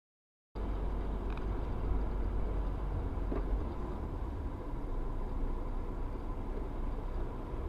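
Steady low rumble of a car driving, with road and engine noise and a faint steady high tone. It starts abruptly about half a second in, after a moment of silence.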